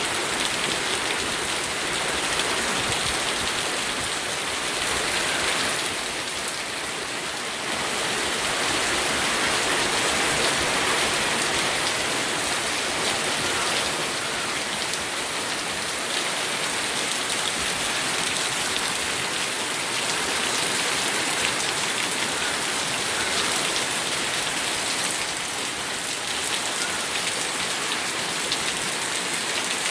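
Steady rain falling, a dense even patter of drops on surfaces that swells and eases slightly now and then.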